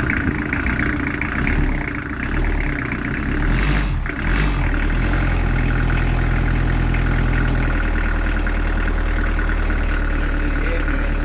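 Beta Marine diesel engine on a newly fitted narrowboat installation running at idle on one of its first runs. About four seconds in the sound dips briefly, then settles into a steadier, even running note.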